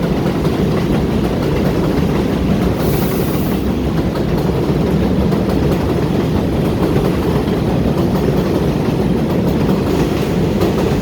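Loud, steady rumble of a vehicle in motion, with no clear engine note.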